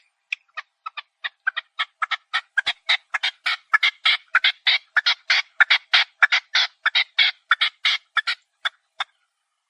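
Chukar partridge calling: a run of short, sharp chuck notes that starts slow and spaced, then quickens and grows louder to about four notes a second before stopping near the end. This accelerating series is the chukar's rally call.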